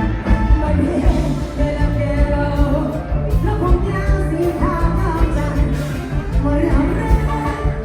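Live band playing loud amplified rock-style music, with a singer's voice over a heavy, steady bass beat.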